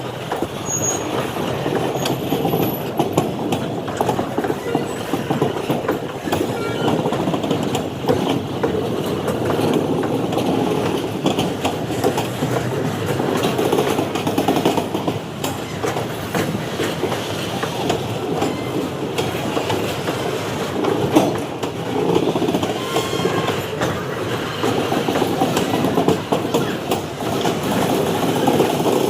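Indian Railways freight train's wagons rolling past with a steady rumble, the wheels clicking repeatedly over the rail joints.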